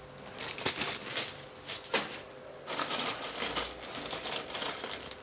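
Plastic packaging crinkling, with irregular small clicks and rattles, as bagged plastic model-kit runners are handled.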